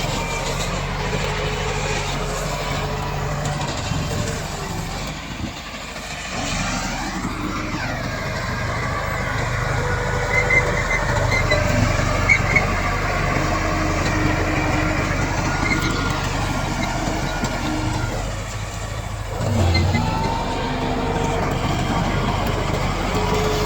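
Komatsu D68 bulldozer's diesel engine running under load, its pitch dipping and rising again several times, with a few short metallic clinks about halfway through.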